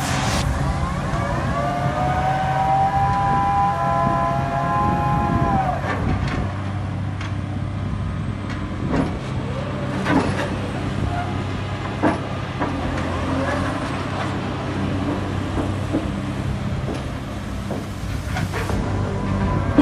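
Backhoe's diesel engine running steadily, with a whine that rises, holds and falls away in the first few seconds and a few short knocks around the middle.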